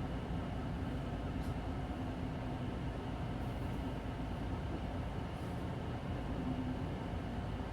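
Inside a Hino Blue Ribbon City Hybrid diesel-electric city bus on the move: steady engine drone and road noise with a low hum, and a faint tick about a second and a half in.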